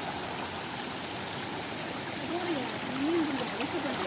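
Rushing water of a stream or waterfall, a steady hiss throughout, with a faint human voice calling out a few times past the middle.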